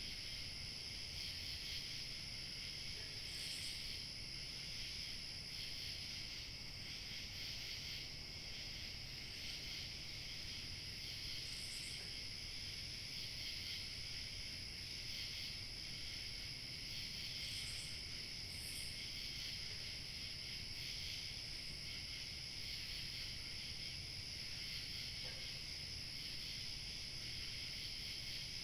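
Crickets chirring steadily in a dense chorus, with a thin high insect tone above it and a few brief higher chirps, over a faint low outdoor rumble.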